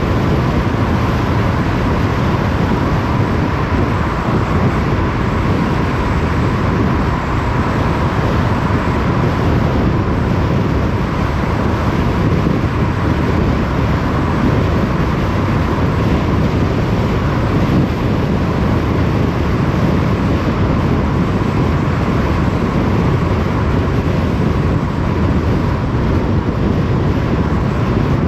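A car driving at a steady pace, its road, tyre and wind noise running evenly, with a faint steady whine.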